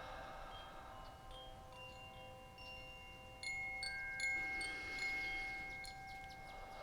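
Calm meditation background music of chimes: several bell-like notes ring on and overlap, and a fresh cluster of chime strikes comes in about three and a half seconds in.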